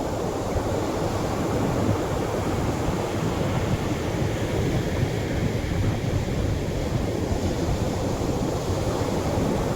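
Atlantic surf washing on a beach: small waves breaking at the shoreline in a continuous low rush, with no single crash standing out.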